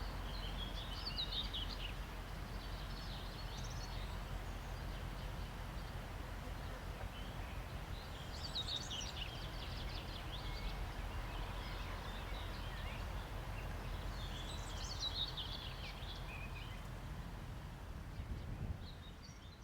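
A songbird singing short twittering phrases, three bouts a few seconds apart, over steady low background noise.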